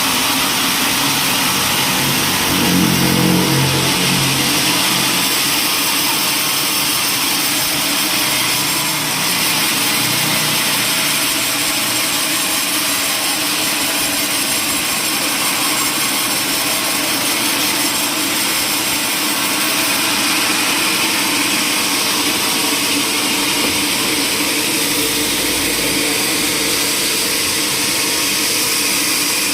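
Woodworking machinery running steadily with a loud, even hiss, strongest in the high range. A low hum swells briefly a few seconds in.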